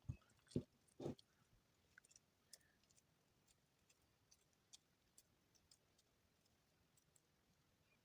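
Soap shavings handled and squeezed by hand: three soft crunching squeezes in the first second or so, then only faint scattered clicks.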